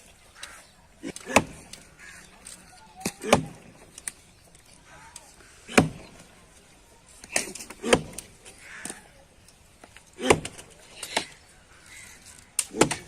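About six heavy chopping strikes on wood, one every two seconds or so, each a sharp crack.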